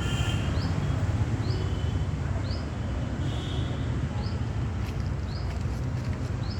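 A steady low rumble with a small bird's short, rising high chirp repeating about once a second.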